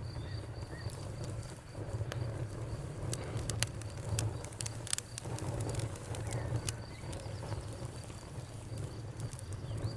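Wood fire crackling with sharp pops, most of them bunched in the middle, over a low steady rumble. A cricket chirps in a fast, even pulse throughout, with a few faint bird calls.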